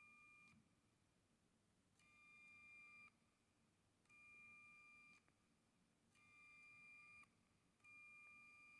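Motorized pop-up selfie camera of a Huawei P Smart Z phone, its small motor giving a faint, steady, high whine of about a second each time the camera rises or retracts, five times about two seconds apart. This is the stock mechanism sound, with no added sound effect.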